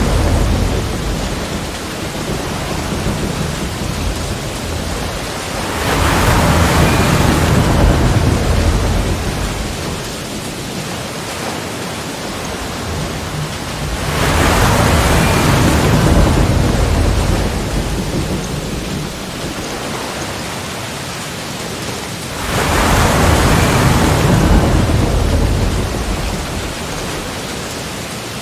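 Sea waves breaking on a shore and against rocks: a deep rumbling surge swells about every eight or nine seconds, three times, and each fades into a steady hiss of wash between breaks.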